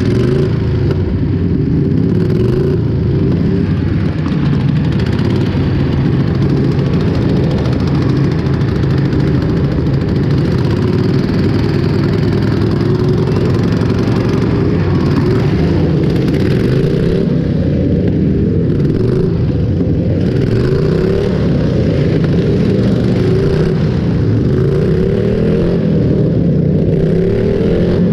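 Loud tractor engines running and revving, the pitch rising and falling again and again.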